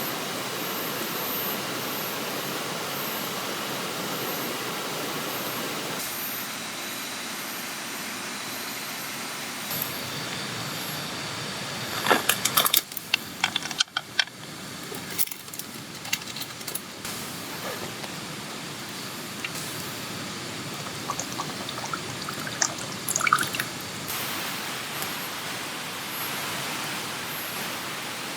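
Steady rushing of a river flowing nearby. Clusters of sharp knocks and clicks come in around the middle and again later on.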